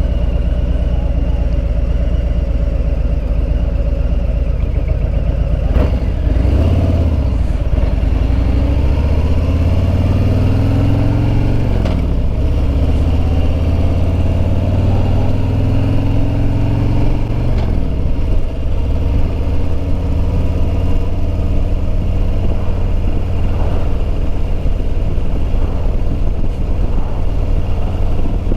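Harley-Davidson Road Glide Limited's Milwaukee-Eight V-twin running low and steady, then pulling away: its pitch rises, drops at a gear change about twelve seconds in, rises again and drops at a second shift a few seconds later, then settles into a steady cruise.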